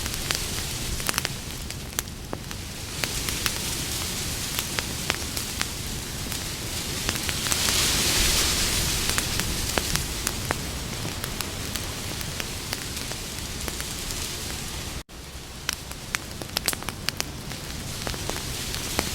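Campfire crackling: a steady hiss with frequent sharp pops and snaps of burning wood, swelling into a louder hiss about eight seconds in. It cuts out for an instant about fifteen seconds in.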